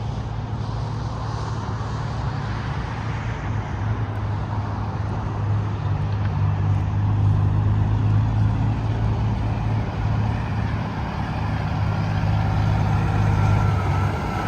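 Interstate highway traffic going by: tyre roar with the steady low drone of a heavy truck's diesel engine, swelling about halfway through and easing off.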